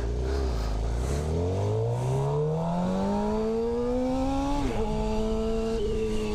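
Suzuki GSX-R 750 inline-four with an Akrapovic slip-on exhaust, accelerating: the engine note climbs steadily for about four seconds, drops sharply with an upshift, then holds steady.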